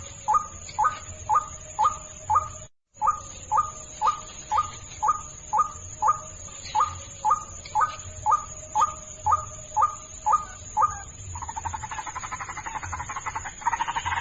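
White-breasted waterhen calling: a steady series of short, sharp notes, about two a second. From about eleven seconds in it breaks into a fast, continuous croaking chatter.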